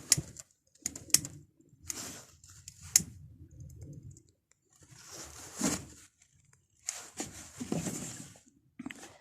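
A few irregular sharp clicks and short rustling noises, with pauses between them, from handling while a fire is being lit.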